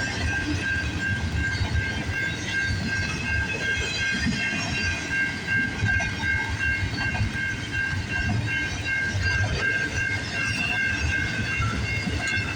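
Intermodal cars of a CN freight train rolling past: a steady low rumble of wheels on rail, with a continuous high-pitched squeal from the wheels over it.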